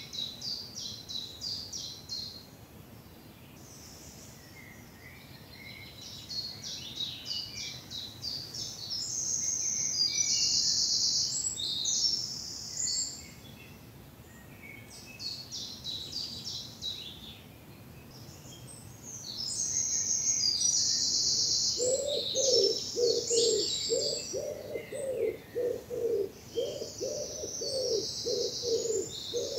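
Woodland birdsong: several songbirds singing in bouts of high, fast trills and twitters, some loud and dense. About two-thirds of the way through, a lower call joins in, repeating evenly about twice a second.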